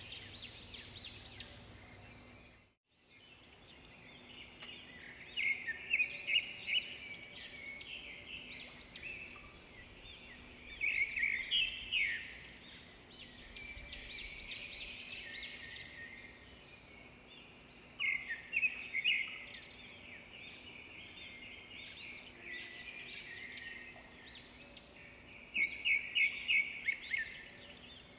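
Small songbirds chirping and calling continuously, with four louder flurries of rapid, high chirps spaced a few seconds apart. The sound drops out briefly about three seconds in.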